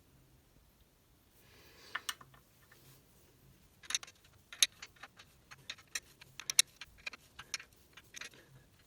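A run of light, irregular clicks and clinks, like small hard objects being handled and knocked together, starting about two seconds in and scattered through the rest.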